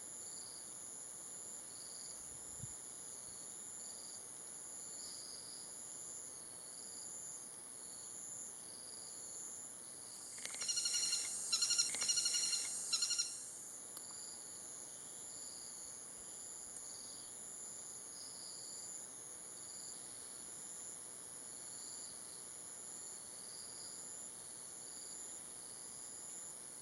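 Forest insect chorus: a steady high-pitched buzz with a softer chirping that pulses on and off, typical of crickets and cicadas. About ten seconds in, a louder burst of rapid, evenly pitched calls sounds for roughly three seconds.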